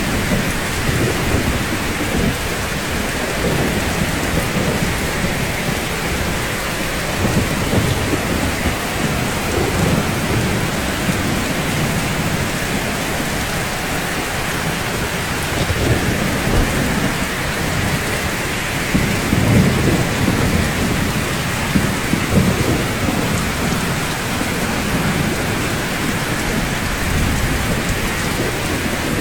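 Steady rain falling on rooftops, an even hiss, with low rumbles that swell and fade several times.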